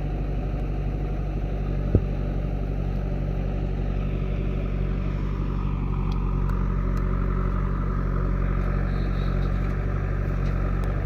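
Heavy diesel engine running steadily, with a single sharp knock about two seconds in.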